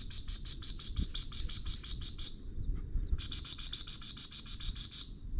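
A cricket-like insect calling close to the microphone in two long bouts of rapid, high-pitched chirps, about seven a second. Between the bouts a fainter steady trill at the same pitch goes on.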